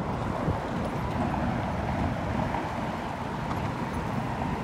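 A car engine running steadily with a low rumble, with wind buffeting the microphone.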